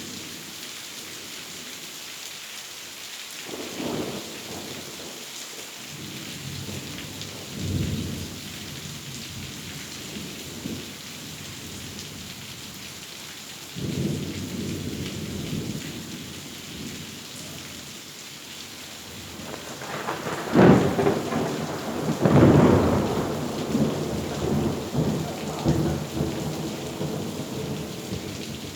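Thunderstorm: steady heavy rain with several rolls of thunder. The loudest thunder comes about two-thirds of the way in, two sharp close cracks followed by a long rolling rumble.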